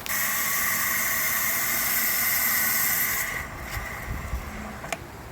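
Steady hissing spray that starts suddenly and dies away after about three seconds.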